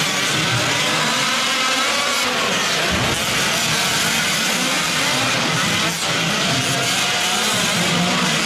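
Several 1/5-scale gas RC trucks racing, their small two-stroke engines revving and easing off as they run over the dirt track.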